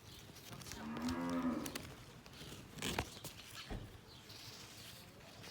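Cow mooing once, a single call of about a second that rises and falls; a couple of sharp knocks follow.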